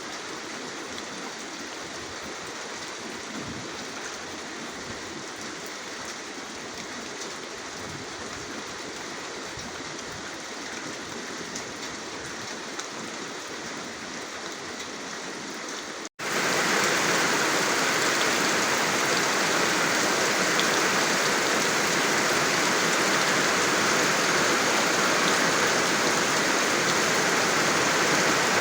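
Steady rain. About halfway through, the sound drops out for an instant at a splice and returns as louder, heavier rain.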